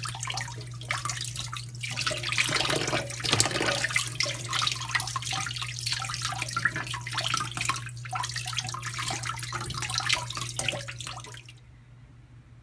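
Tap water running and splashing into a metal bowl as raw chicken thighs are rubbed and rinsed by hand, with small wet slaps and clicks. It stops suddenly near the end, leaving a steady low hum.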